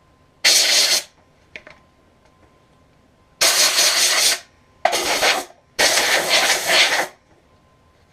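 Compressed air from an air-compressor blow gun, fired in four short hissing blasts of about half a second to a second each, blowing dust out of a vacuum cleaner's filter parts.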